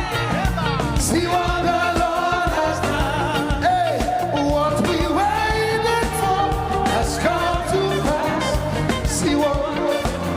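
Live gospel praise band playing an upbeat dance groove, steady drums and bass under a wavering lead vocal line.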